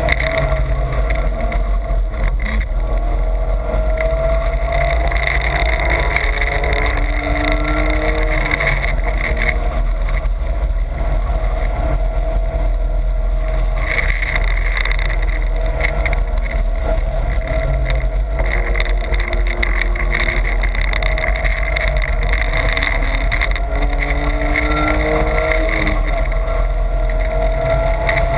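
BMW's engine heard from inside the cabin at speed on track, its note climbing and falling again and again as the driver works the throttle, over a heavy, steady road and wind rumble.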